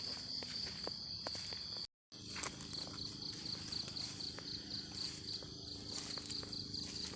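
An insect trilling at a steady high pitch, which turns into a fast, even pulsing after a brief dropout about two seconds in, with scattered light clicks and rustles of footsteps on the forest floor.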